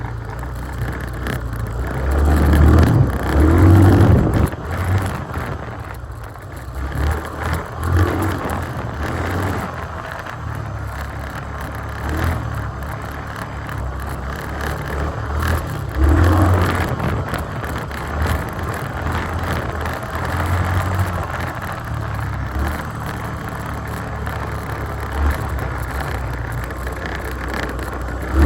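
2021 Yamaha Grizzly 350 ATV's single-cylinder engine working hard around a dirt track, the throttle opened and eased over and over. It surges loudest about three seconds in and again about sixteen seconds in.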